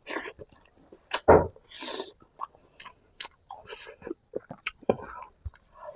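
Close-miked chewing and biting of spicy braised pig feet, with irregular wet clicks and smacks; the loudest bite comes about a second in.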